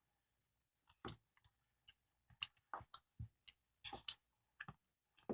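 Faint, irregular mouth clicks and smacks from chewing a soft custard-filled bungeoppang, starting about a second in.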